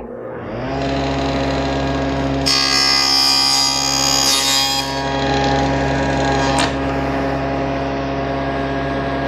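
SawStop table saw starting up: its motor and blade spin up to speed within the first second, then run steadily. From about two and a half to five seconds in, the blade cuts through the jig's wooden auxiliary fence, adding a loud, hissing high cutting noise. A sharp click comes near seven seconds, and the motor begins to wind down at the end.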